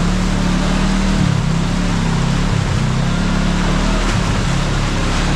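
Kawasaki KRX side-by-side's parallel-twin engine running on a trail, its pitch dipping and rising again as the throttle changes, over a steady rush of wind and tyre noise.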